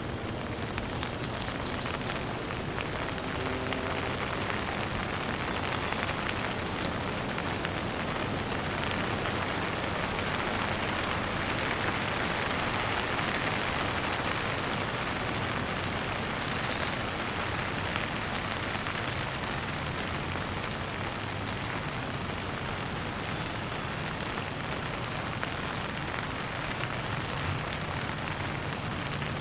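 Steady rain falling on a surface, a dense even patter of drops. About halfway through, a brief high chirping cuts in over the rain for about a second.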